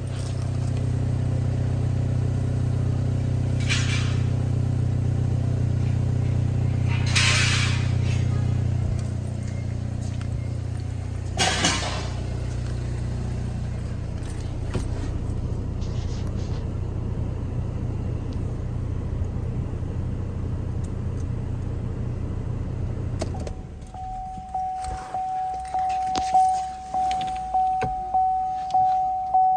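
2014 Buick Encore's 1.4-litre four-cylinder engine idling steadily, with a few brief hissing noises over it. It shuts off about 23 seconds in, and the car's warning chime starts dinging, a little more than once a second.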